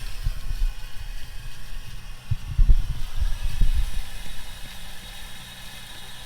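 Craftsman 2700 PSI gas pressure washer running, with an uneven low rumble that grows louder in the middle and eases off near the end.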